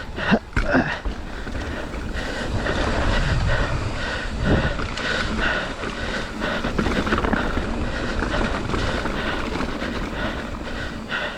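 Mountain bike descending a rough, rocky trail: wind buffeting the microphone over tyre noise, with the bike's chain and frame rattling steadily over the rocks.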